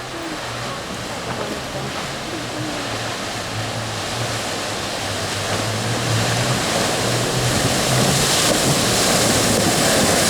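Off-road 4x4 engine running as the vehicle pushes through water, with a steady rushing and splashing of water, growing louder as it comes closer.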